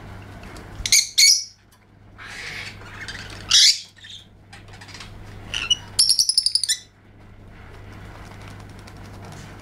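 Pet lovebird giving sharp, shrill chirps: a pair of calls about a second in, a loud call at about three and a half seconds, and a rapid stuttering run of chirps around six seconds, with softer scratchy noise in between.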